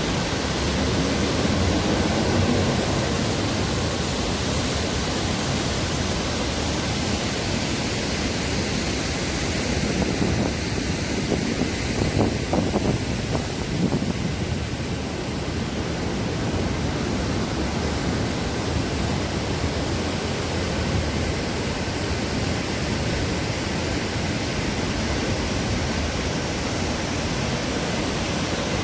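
Waterfall: a steady, even rush of falling water, with a few brief louder surges about ten to fourteen seconds in.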